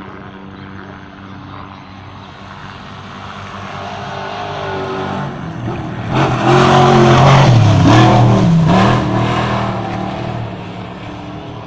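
Off-road race truck's engine approaching and passing at speed. The engine note builds over several seconds, is loudest for about three seconds in the middle with its pitch dipping and rising as it goes by, then fades away.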